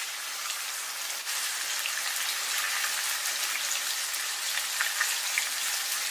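Pork slices and garlic sizzling in oil in a hot frying pan: a steady crackling hiss that gets a little louder about a second in.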